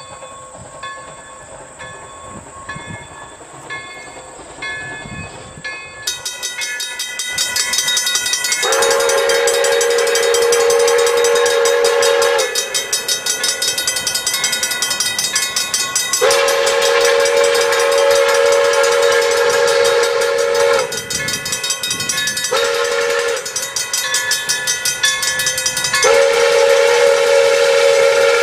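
Steam whistle of Pere Marquette 1225, a Lima 2-8-4 Berkshire locomotive, blowing two long blasts, a short one and a long one, the grade-crossing signal, as the train comes closer and louder. Before the whistle starts there is a faint, even rhythmic beat.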